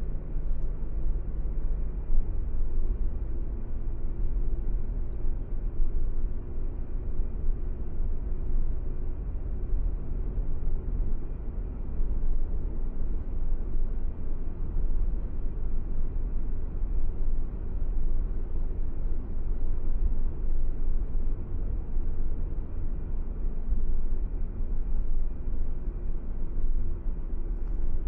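A car driving on a paved road: steady low engine hum and road rumble. The engine's tone shifts a couple of times, about 2 and 12 seconds in.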